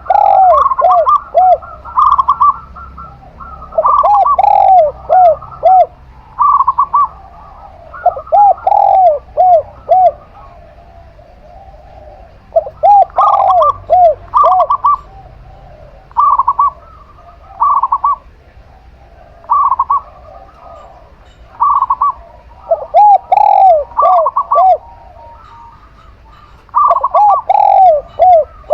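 A zebra dove (perkutut) and a spotted dove (tekukur) cooing in turn, phrases coming every few seconds and sometimes overlapping: one voice gives runs of three to five lower arching coos, the other shorter, higher, even notes.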